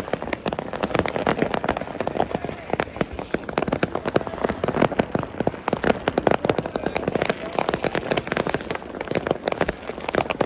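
Dense, continuous crackling of many firecrackers and fireworks going off at once: a rapid rattle of sharp pops with no pause.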